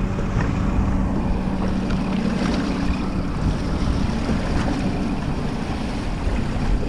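Wind buffeting the microphone aboard a fishing boat, with water and a low steady hum in the first three seconds or so.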